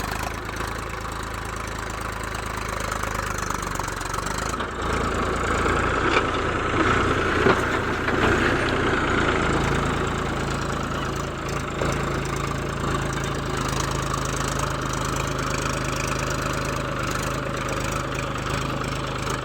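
Mahindra 575 tractor's four-cylinder diesel engine running steadily, growing louder for several seconds from about four seconds in, then settling back.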